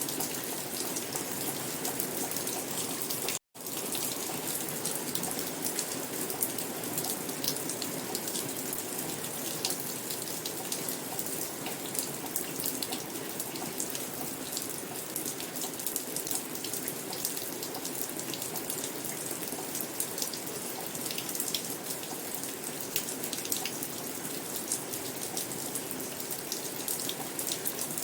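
Steady rain falling, with many sharp individual drop hits. The sound drops out completely for a moment about three seconds in.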